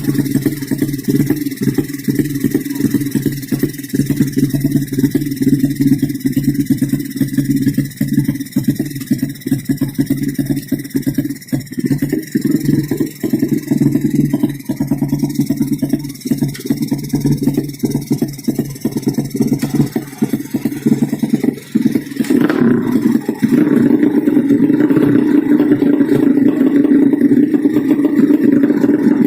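Engine of a 200cc underbone (bebek) racing motorcycle running and revving in a choppy drone. About three-quarters of the way through there is a sharp click, after which the engine note is steadier and louder.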